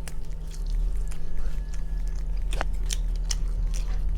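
A person chewing and biting food close to the microphone, with scattered short clicks and crunches. A steady low hum runs underneath.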